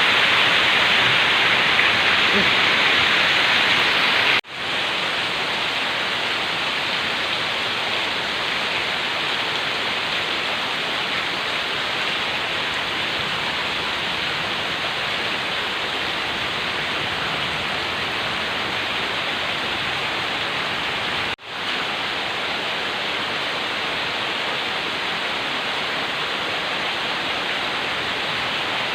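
Heavy tropical rain pouring down in a steady hiss. It cuts out briefly twice, once about four seconds in and again about two-thirds of the way through, and is a little quieter after the first break.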